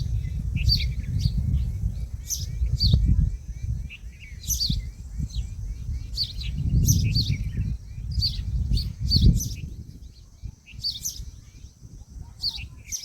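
Birds chirping: short, high, falling chirps repeated about once a second, over a low rumble.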